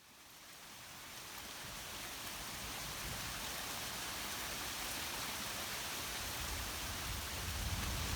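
Steady rain falling, fading in over the first two seconds or so, as an even hiss.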